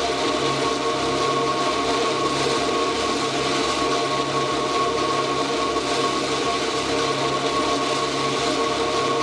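Ambient electronic music: a dense, grainy, rasping noise texture over steady held drone tones, unchanging throughout.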